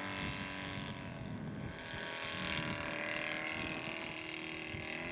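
Engine of a 1/3-scale Nieuport 17 radio-controlled model plane droning steadily in flight, its pitch sliding down a little about three seconds in during a wingover.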